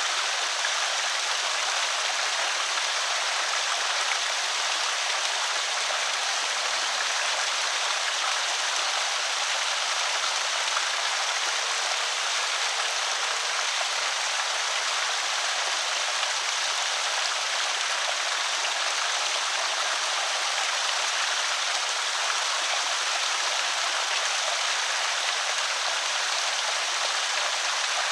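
Creek water pouring over a small spillway: a steady, even splashing rush.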